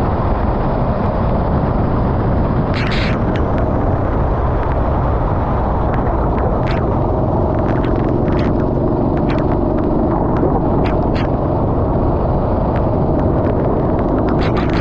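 Racing kart engine running steadily at speed with heavy rumbling wind and track noise on the onboard microphone, and scattered sharp ticks throughout.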